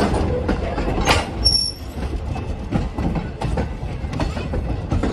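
Steam train's cars rolling slowly on the rails: a steady low rumble with repeated wheel clicks and a brief high wheel squeal about a second and a half in.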